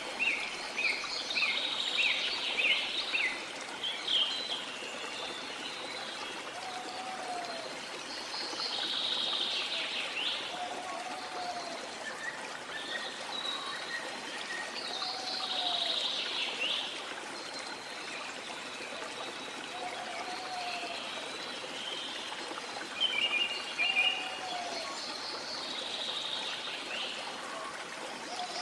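Steady rush of sea water with small birds chirping and trilling over it. A short, low call repeats about every four seconds.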